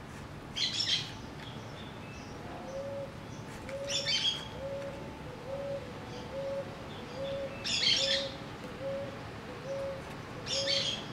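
Birds calling: four short bursts of high chirping a few seconds apart, over a regular run of short low notes, a little more than one a second.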